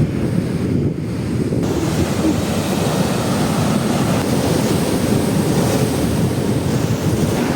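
Atlantic surf breaking and washing on a sandy beach, with wind buffeting the microphone in a heavy low rumble. A brighter hiss of surf comes in about a second and a half in and holds.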